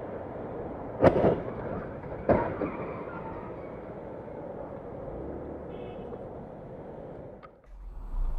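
Steady road and engine noise from a moving car, broken by two sharp impacts a little over a second apart, about a second in, typical of a car collision. Near the end the noise cuts off and a low rumble starts.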